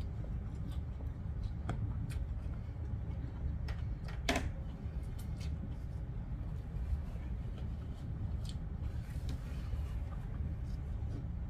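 A person chewing a mouthful of fried noodles with the mouth closed: soft, scattered mouth clicks, with one sharper click about four seconds in, over a steady low rumble.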